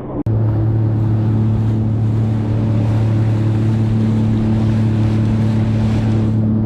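Jet ski engine running at a steady cruising speed, a constant drone that holds one pitch over the rush of water and wind.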